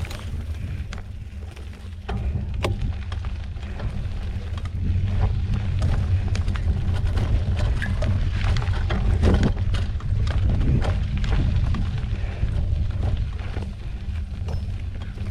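Wind rumbling on the microphone of a moving mountain bike, with the bike rattling and clicking over rough trail. It gets louder about two seconds in and again a few seconds later.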